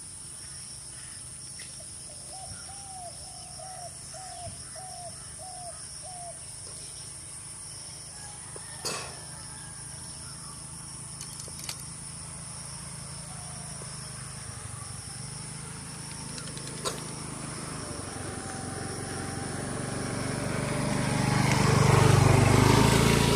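A bird calls a run of six short, arched notes, one about every two-thirds of a second, starting about two seconds in. Near the end a motor vehicle's engine approaches and grows loud.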